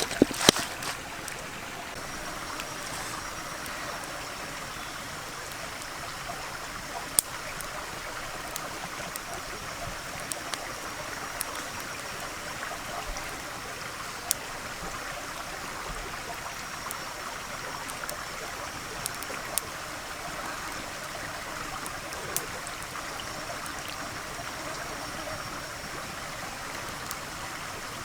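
Steady rush of flowing water, like a small stream, with a few sharp single clicks now and then.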